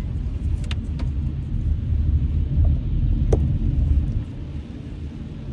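Low rumble inside a car in the rain, louder in the middle and easing about four seconds in, with a few sharp clicks.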